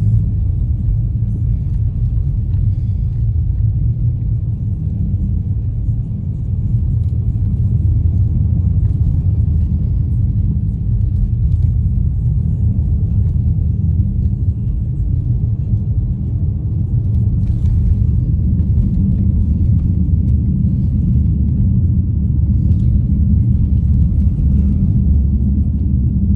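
Steady low road and tyre rumble inside the cabin of an all-wheel-drive car driving on a snowy mountain road.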